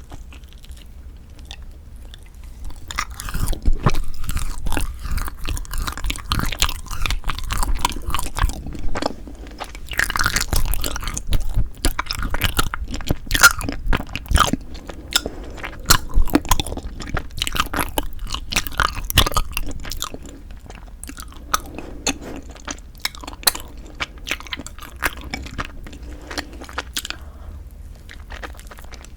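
Close-miked chewing of frozen Kiri cream cheese rice cake, a dense run of small sharp clicks and crackles. Softer for the first few seconds, busiest from about three seconds in until about twenty seconds, then softer again.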